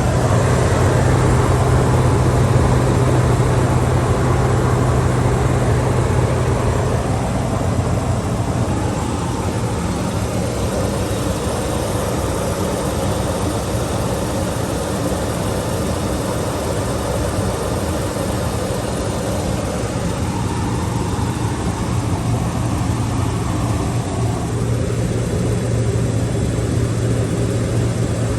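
Toyota 2UZ-FE 4.7-litre V8 idling steadily with a low, even hum, freshly flushed and filled with new oil; it eases slightly quieter after the first several seconds.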